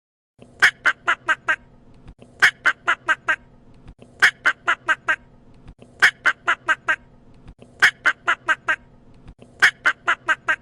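Duck quacking in quick runs of about five quacks, each run repeating about every two seconds, six times over.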